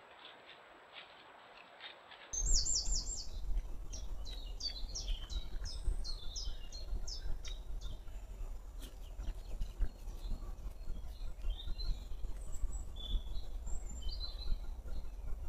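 Small birds singing in woodland. One sings a fast run of high, repeated falling notes for about five seconds, then scattered chirps follow, all over a steady low rumble that starts suddenly about two seconds in, after faint hiss.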